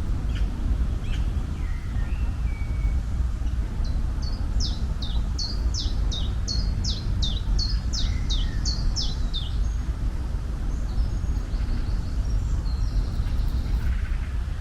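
A songbird sings a quick run of about a dozen short, high, downward-sliding notes in the middle of the stretch, with a few fainter chirps around it. A steady low rumble runs underneath.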